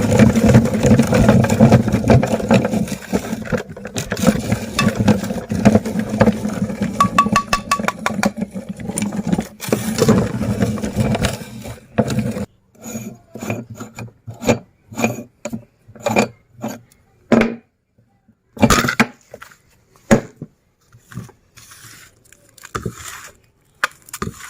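Electric meat grinder running and crunching hard candy, a steady motor hum with grinding and scraping, which stops about twelve seconds in. After that come only scattered clicks and crackles.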